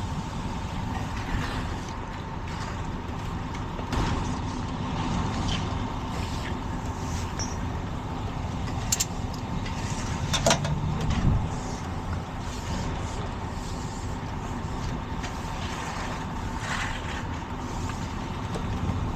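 Steady vehicle and road noise, with a few sharp knocks and a short low hum about halfway through.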